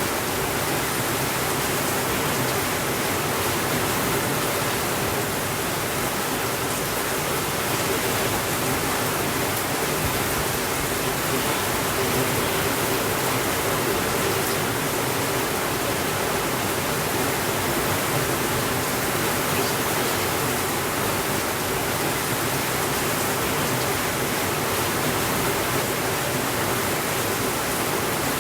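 Steady rainfall, an even hiss that holds the same level throughout with no sudden changes.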